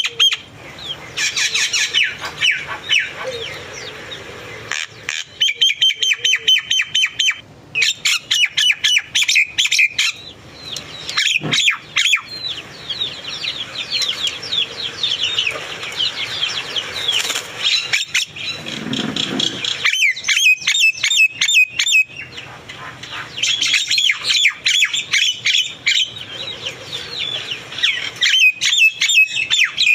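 Small birds chirping and twittering continuously in quick, repeated series of high calls, with brief lulls.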